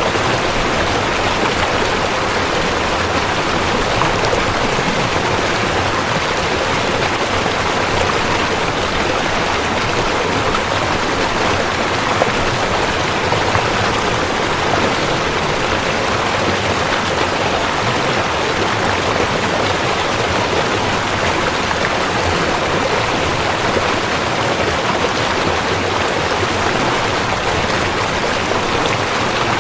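River water rushing in a steady, loud, unbroken flow.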